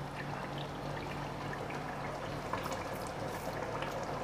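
Chicken korma bubbling and sizzling steadily in a pot on the gas flame, with a few faint ticks and a low steady hum underneath.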